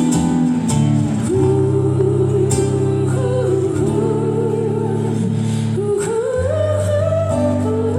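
A song plays: a voice sings long held notes that waver slightly, over instrumental accompaniment with steady bass notes.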